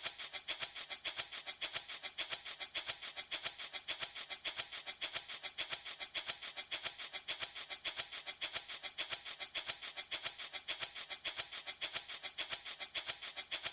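Handmade baby rattle shaken steadily in an even rhythm, about five bright, crisp rattles a second with no pauses.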